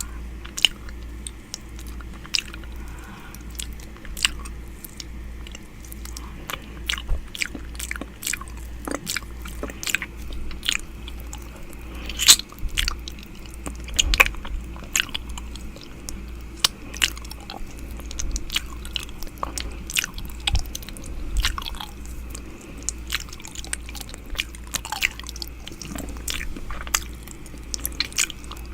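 ASMR 'ear eating' mouth sounds close to the microphone: irregular mouth clicks and smacks, a few a second, over a steady low hum.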